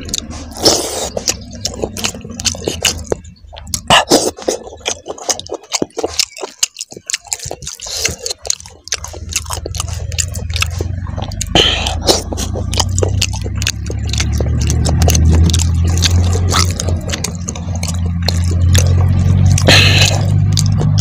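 Close-miked eating by hand: wet chewing, lip smacks and clicks, with fingers squishing rice and gravy on the plate. From about nine seconds in, a steady low hum runs underneath.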